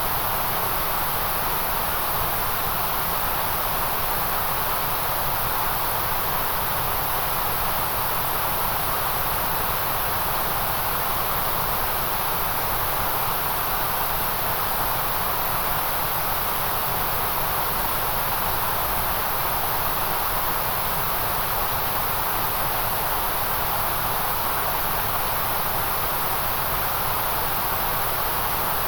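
Steady, unchanging electronic white noise: a hiss strongest in the high range, with a second softer band in the middle range.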